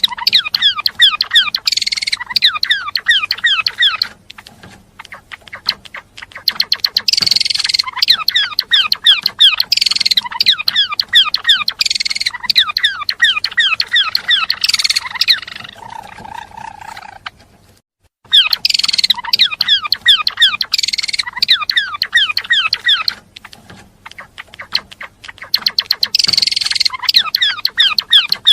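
A gelatik belong songbird singing continuously in rapid chattering bursts of many fast, high, downward-sweeping notes, each burst lasting a few seconds with short pauses between. Near the middle there is a brief lower trill, then a short silence.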